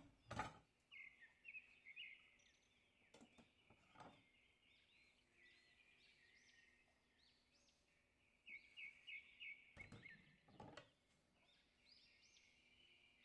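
Faint bird chirping, clusters of short high notes repeated in quick runs, with a few soft knocks.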